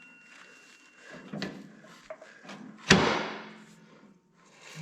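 A few light knocks, then one sharp metal clunk about three seconds in, as a tractor part is worked into its seat while it is checked whether it has gone in all the way.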